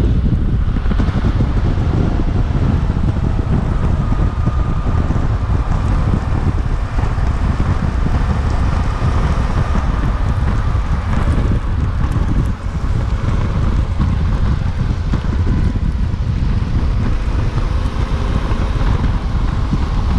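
Suzuki V-Strom 800DE's 776 cc parallel-twin engine running steadily under way, buried under heavy wind noise on the microphone.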